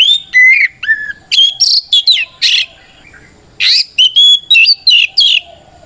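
Oriental magpie-robin singing its loud, full challenge song, calling out to a rival: quick whistled notes sweeping up and down in dense phrases. There is a pause of about a second near the middle before the song resumes.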